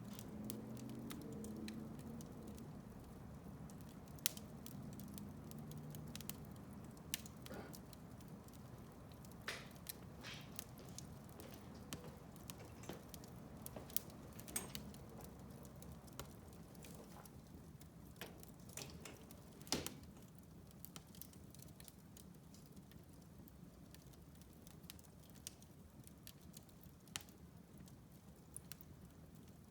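Wood fire in a fireplace crackling, with irregular sharp pops over a low, steady flame rumble. The rumble is stronger for the first several seconds, then eases.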